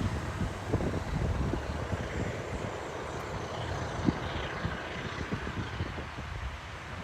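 Low, steady rumble of a passing vehicle, with irregular low knocks from wind buffeting the microphone.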